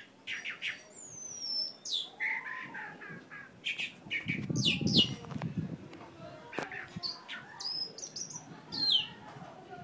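Several birds chirping and calling at once: quick chirps, whistled notes and falling sweeps that overlap throughout. A brief low rumbling noise comes about halfway through.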